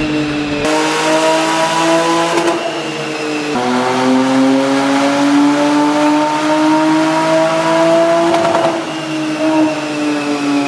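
Porsche 997.2 Turbo's twin-turbo flat-six through an Armytrix Valvetronic exhaust, pulling hard with its note climbing. About three and a half seconds in the pitch drops sharply at a PDK upshift and climbs again. Near the end the revs fall away as the throttle eases off.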